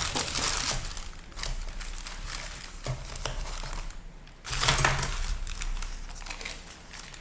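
Food wrapping crinkling as it is handled and opened, in two louder stretches: one at the start and another about four and a half seconds in, with scattered small clicks between.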